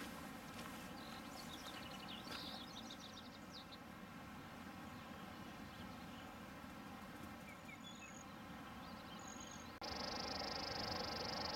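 Songbirds singing in the open, with scattered short trills and chirps and a couple of brief high whistles over a faint outdoor background. About ten seconds in, a steady high buzzing trill starts and holds.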